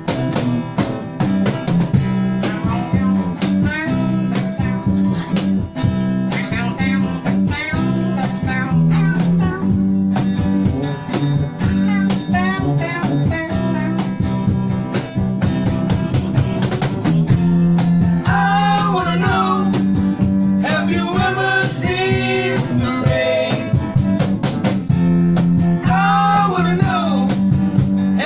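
Band music: a blues-rock song with guitar over a steady beat, and a singing voice, most prominent in the later part.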